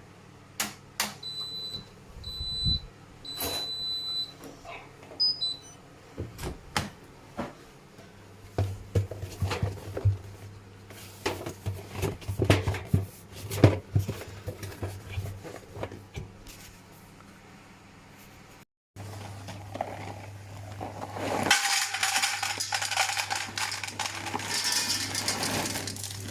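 Hotpoint washing machine beeping three times, the third beep longer, typical of an end-of-cycle signal. A run of clicks and knocks follows, and later a steady crinkling and rustling, as of a wet box or packaging being handled.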